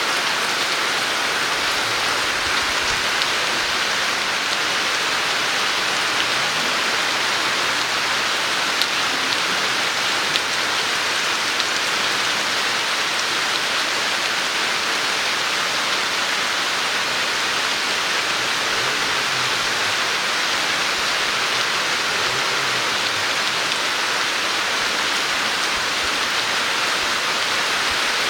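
Tropical storm rain falling steadily, an even hiss of downpour that holds at one level throughout.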